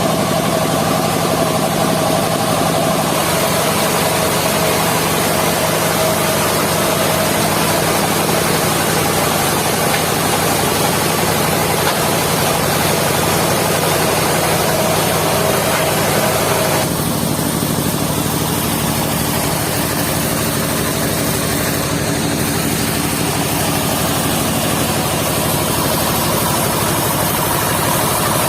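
Engine-driven circular sawmill running steadily, with a change in its sound about two-thirds of the way through.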